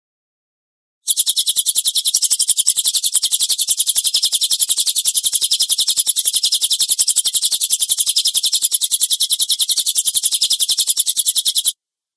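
Cililin songbird's harsh, rapid rattling trill ('tembakan kasar'), high-pitched and evenly spaced, starting about a second in and cutting off abruptly shortly before the end.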